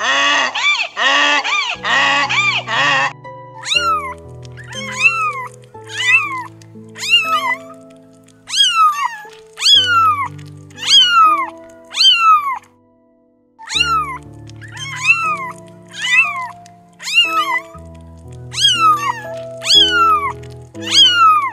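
For about the first three seconds, a rapid run of loud, harsh animal calls. Then a litter of young kittens mewing, each mew high and falling in pitch, about once a second with a short pause near the middle, over background music.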